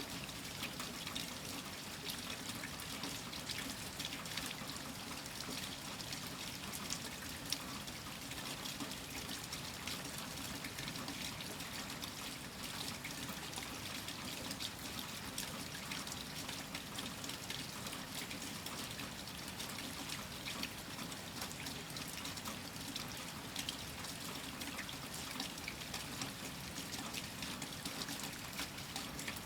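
Steady rain falling, with many small drop hits over an even hiss.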